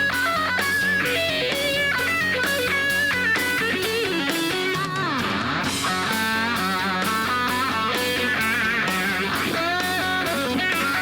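Live rock band playing a fast instrumental passage: electric guitar leads with quick runs of notes and bent, wavering notes over bass and a steady drum beat.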